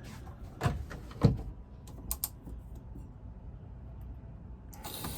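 A few light clicks and knocks, then near the end a faucet in the RV is opened and water starts running from the tap, fed by the RV's freshly switched-on water pump.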